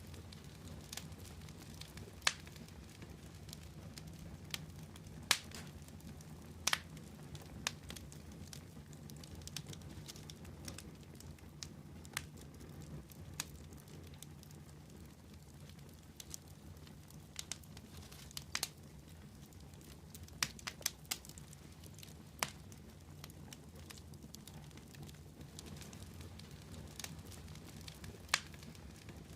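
Wood fire burning with a low steady rumble and irregular sharp crackles and pops scattered throughout.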